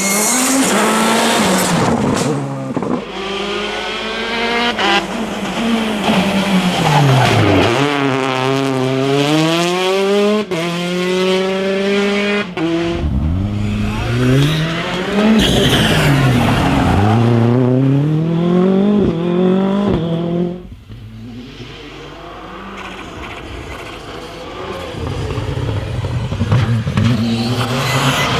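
Rally car engine at full throttle on a stage, its pitch climbing and dropping sharply again and again as the car shifts gears and lifts off, then passing and fading about 20 seconds in; near the end a second car is heard approaching.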